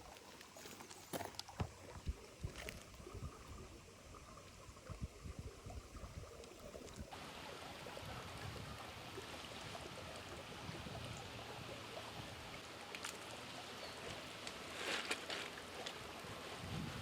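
Shallow creek water running, a steady rushing hiss that gets suddenly louder about seven seconds in, with scattered light knocks and rustles.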